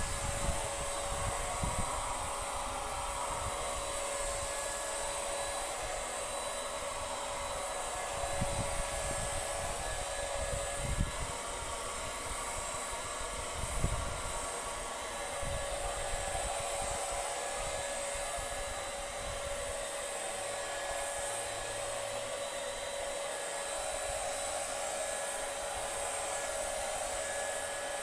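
Paint Zoom electric paint sprayer running steadily: a motor whine over a hiss of air.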